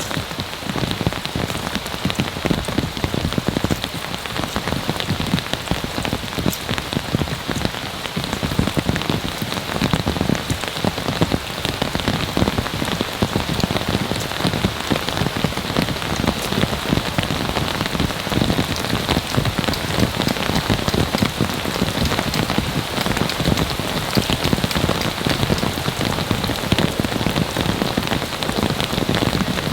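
Heavy rain pouring down steadily: a dense, even hiss of countless drops striking.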